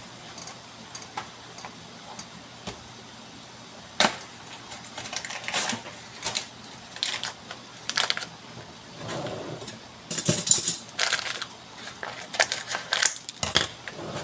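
Kitchen utensils and containers being handled: a run of sharp taps, clinks and short scrapes that starts about four seconds in, after a quiet stretch.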